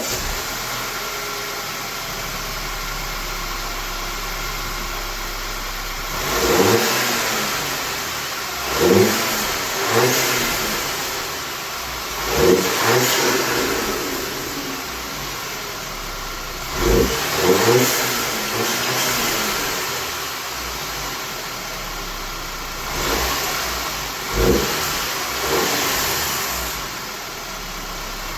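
2012 Audi A4 B8's turbocharged engine idling just after starting, blipped about ten times in short revs, mostly in pairs, each dropping back to idle. It has a newly fitted turbo muffler delete, which makes it a little louder.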